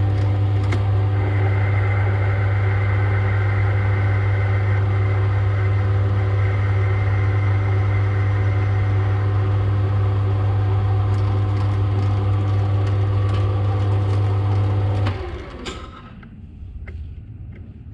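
Metal lathe running under power feed with the change gears and lead screw engaged for thread cutting, a steady hum with gear whine while the first light scratch pass is taken. It is switched off about fifteen seconds in and spins down, followed by a few light clicks.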